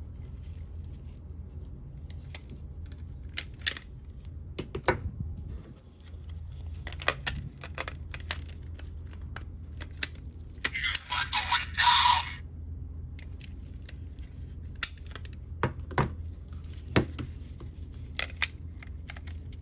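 Bandai Ben 10 transforming arm toy being handled, its plastic parts clicking and snapping repeatedly. About eleven seconds in, the toy's electronic sound effect plays for about two seconds from its small speaker.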